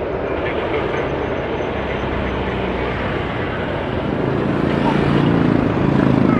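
Jet airliner engines running, a steady rushing that grows louder about two-thirds of the way in, with a low hum coming up under it.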